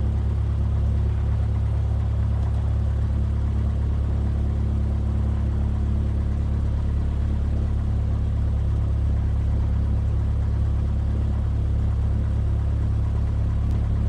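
Cessna 172F's Continental O-300 six-cylinder engine running steadily at low taxi power, a deep even drone.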